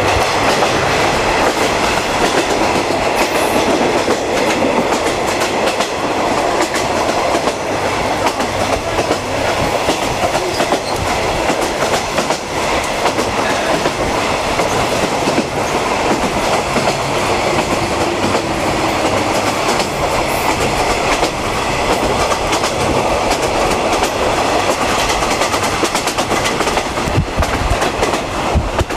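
50-series passenger coach running on the rails behind a DD51 diesel locomotive, heard from inside the coach: steady running noise of the wheels on the track, with a few low thumps near the end.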